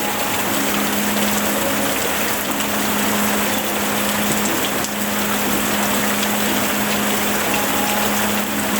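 Steady rain falling in an even hiss, with a constant low hum underneath.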